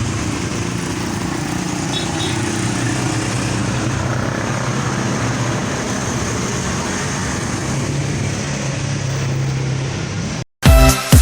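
An engine idling steadily as a constant low drone. It cuts off abruptly about ten and a half seconds in, and loud electronic dance music starts right after.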